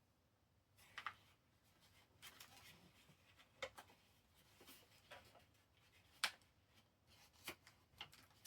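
Faint rustling and crinkling of paper being handled and folded, with scattered small taps and clicks; the sharpest click comes about six seconds in.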